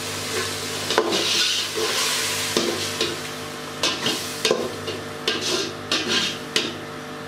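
Onion, chilli and spice masala sizzling in a metal pot just after water has been added, while a slotted metal spoon stirs and scrapes against the pot's bottom and sides. The scrapes come in quick strokes, more often from about four seconds in.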